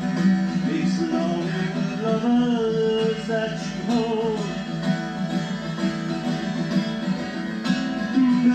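Live acoustic guitar music, plucked and strummed, with a sung melody line over it.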